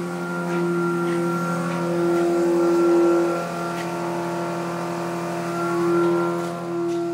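Water-extraction machinery running steadily: a mechanical hum with several held tones, swelling and fading in loudness.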